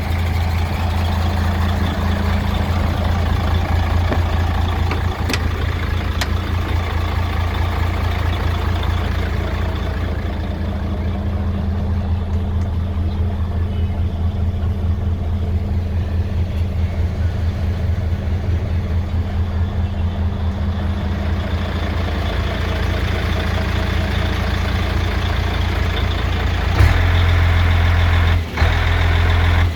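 Mercedes-Benz Actros 2640 tractor unit's diesel engine running steadily with a low, even throb. Near the end there is a sharp click, after which the engine sounds louder, and a brief dip follows.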